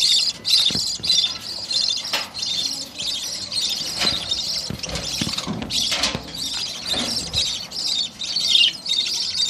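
A flock of lovebirds chirping and squawking continuously in many high, rapid calls. A few soft knocks come through, mostly in the middle of the stretch.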